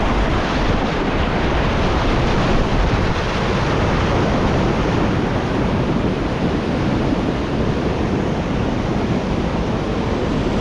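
Rushing whitewater of a creek rapid: a steady, loud wash of churning water.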